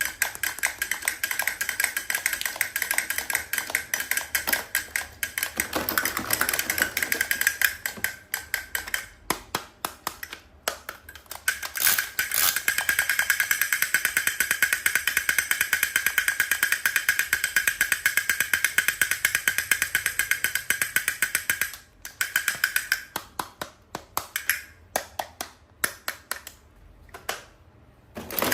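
Rapid, continuous mechanical clicking with a steady high tone behind it, breaking off briefly about ten seconds in and thinning to slower, sparser clicks for the last few seconds.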